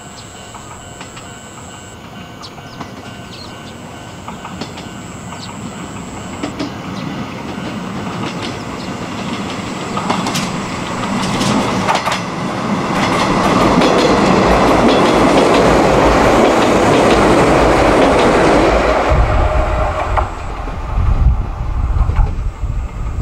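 Izuhakone Railway 7000 series electric train approaching and running past, its wheels clacking over the rail joints. The sound builds steadily, is loudest about two-thirds of the way through, then drops away into low, irregular rumbling in its wake.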